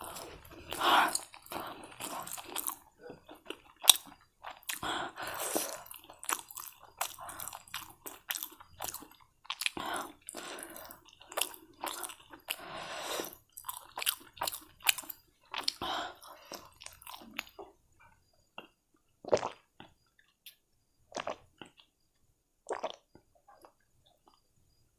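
A person chewing mouthfuls of spicy Korean instant noodles close to the microphone: irregular wet mouth sounds and clicks. After about seventeen seconds they thin out to a few isolated mouth sounds.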